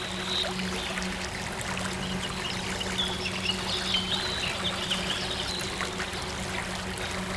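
A stream of water trickling and splashing steadily, with a small bird chirping high over it at the start and again through the middle. A low steady synth drone hums underneath.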